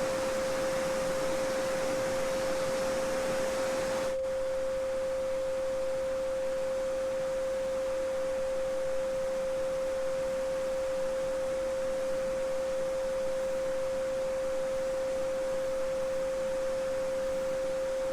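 Steady pure 528 Hz solfeggio sine tone held without change. Underneath it a babbling-brook recording drops away abruptly about four seconds in, leaving the tone almost alone over faint water noise.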